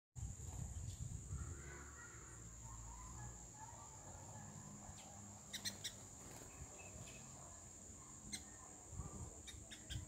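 Wild songbirds calling: soft chirps in the first few seconds, then a few short, sharp chip notes, over a steady high-pitched whine and a low rumble that fades after the first few seconds.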